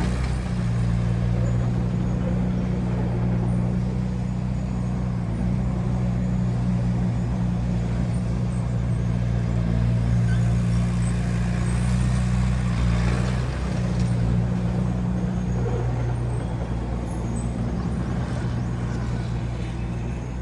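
Bulldozer's diesel engine running steadily with a deep, even note, which shifts slightly about two-thirds of the way through.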